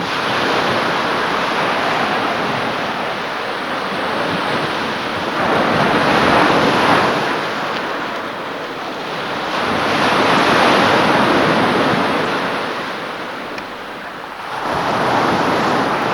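Sea waves washing in and out, the noise swelling and fading every four to five seconds, with wind buffeting the microphone.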